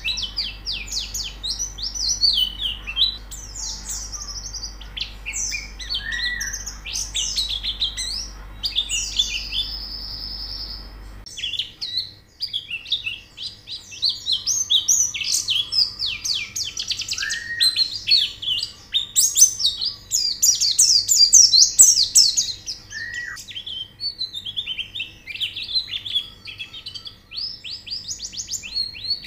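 White-eyes (pleci) singing: fast, dense, high-pitched twittering chirps and trills that go on without a break. A low background hum cuts off suddenly about eleven seconds in.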